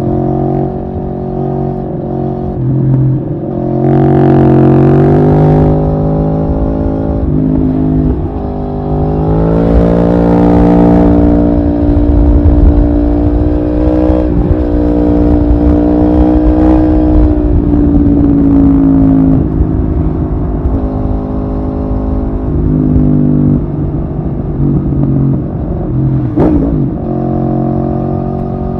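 Aprilia Tuono V4R's V4 engine on the move. It pulls up in pitch twice, about four and nine seconds in, holds a steady high note for several seconds, then eases off. Near the end there is a sharp brief sound.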